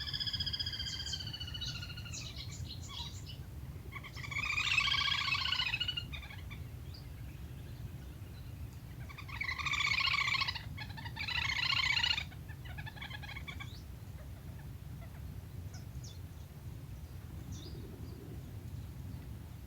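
Little grebe calls: a falling, whinnying trill at the start, then three loud rapid trilled bursts about four to seven seconds apart and a few fainter ones. A steady low hum runs underneath.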